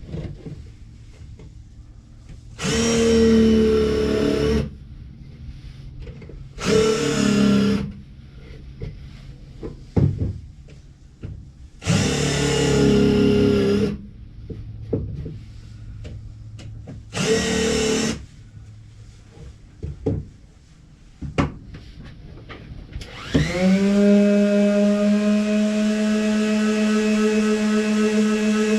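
Power drill run in four short bursts, with knocks of wood being handled in between. Near the end the drill winds up and keeps running steadily at full speed.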